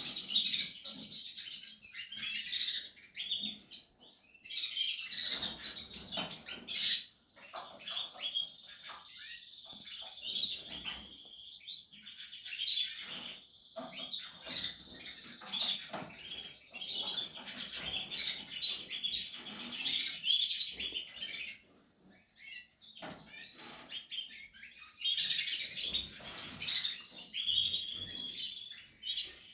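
Portuguese harlequin canaries chirping and calling, with short rapid trills, and scattered light clicks among them.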